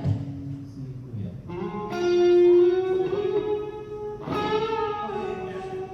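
Guitar playing a few sustained notes and chords that ring out. A new note comes in about a second and a half in, and another strummed chord a little after four seconds.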